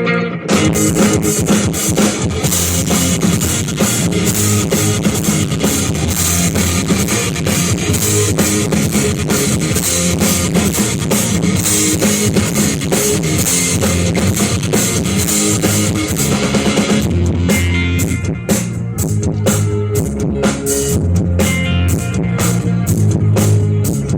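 Live rock band playing an instrumental passage: electric guitar and bass with a full drum kit. The drums and cymbals come in just after the start, and about two-thirds of the way through the cymbal wash thins out to a steady drum beat.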